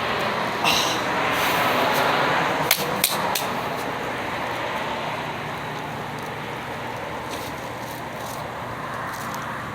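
Road traffic noise, a vehicle passing that swells and then slowly fades, with a few sharp clicks about three seconds in.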